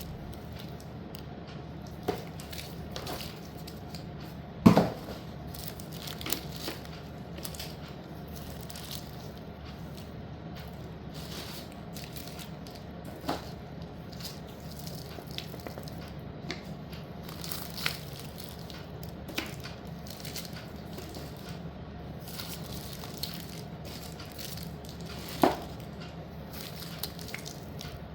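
Pieces of baked slate (edible clay slate pencils and circles) clicking and knocking as they are handled and set down, over a steady low hum. There are scattered light clicks throughout and two sharper knocks, one about five seconds in and one near the end.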